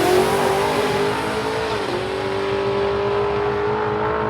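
A drag-racing car's engine at full throttle, holding a steady high pitch, with a brief dip in pitch about two seconds in.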